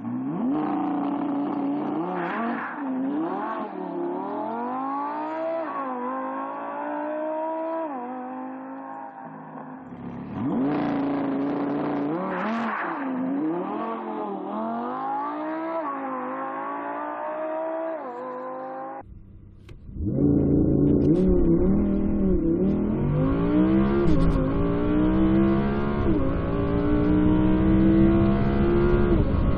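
Audi R8 V10 RWS's naturally aspirated 5.2-litre V10 under hard acceleration, its pitch climbing through each gear and dropping back at every upshift. After a brief dip about two-thirds of the way in, it comes back louder with a deeper rumble as the car pulls hard through the upper gears.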